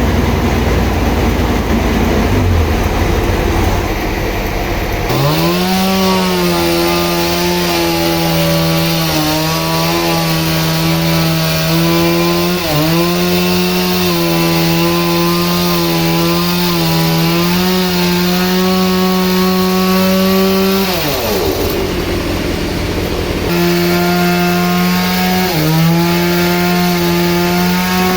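Two-stroke chainsaw at full throttle cutting through a large log, its high pitch sagging now and then as the chain bites. A low rumble comes first; the saw starts about five seconds in, eases off with a falling whine about three-quarters of the way through, then revs up and cuts again.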